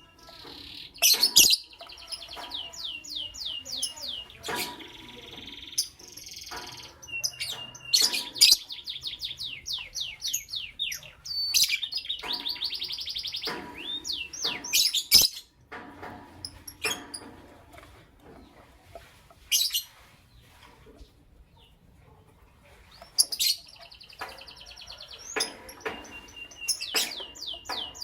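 Lovebirds, a creamino and a lutino opaline, chirping in quick high rattling runs, with sharp loud chips between the runs and a quieter spell about two-thirds of the way through.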